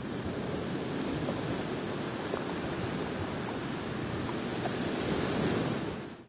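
Steady wash of ocean surf, fading out near the end.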